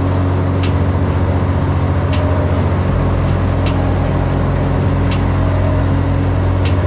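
Small single-engine plane's piston engine and propeller running steadily at high power, a constant drone heard from inside the cabin, with a faint high tick about every second and a half.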